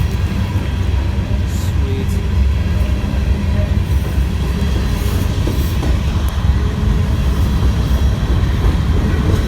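Norfolk Southern freight train rolling past, a steady heavy low rumble of the cars on the rails.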